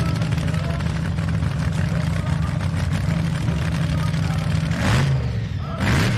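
Heavy engine running steadily, typical of a pulling tractor at a tractor-pull meet, with two short loud blasts about five and six seconds in.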